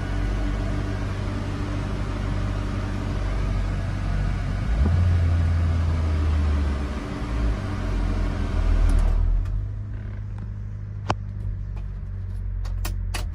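Subaru Sambar truck's 660cc supercharged engine running steadily, with a heavier low drone for a couple of seconds about five seconds in. About nine seconds in the higher noise drops away, leaving a low hum with a few sharp clicks near the end.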